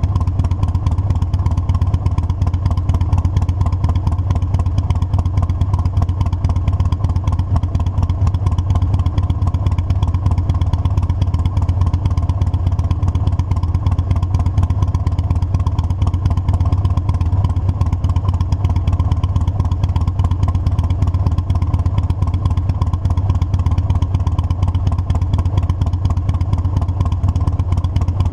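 Motorcycle engine running steadily under way, its low, even drone unbroken while the bike cruises.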